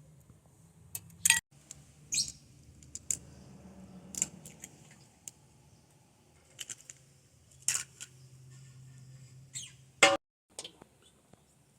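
A string of sharp, scattered clicks and knocks, several seconds apart, with a few brief high bird chirps in between.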